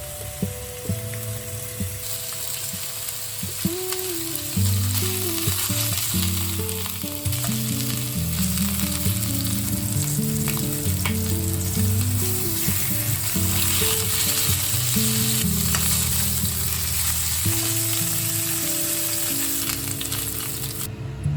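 Food sizzling as it fries in a pan, a steady hiss that thickens about two seconds in, with a few light clicks. Soft background music plays under it.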